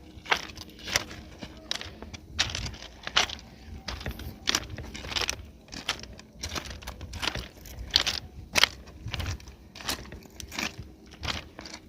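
A person's footsteps walking slowly, one sharp step sound about every half second to a second, with uneven spacing.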